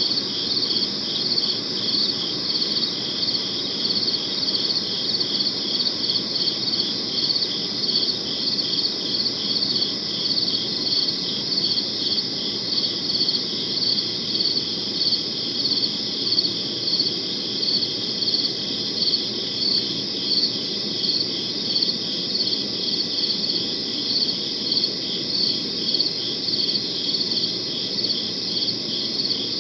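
Crickets chirping: a continuous high-pitched trill pulsing in a steady, even rhythm.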